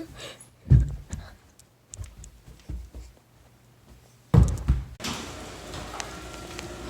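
A few knocks and thumps of someone hurrying to the door, a loud thunk a little past four seconds in, then the steady hiss of heavy rain from about five seconds on.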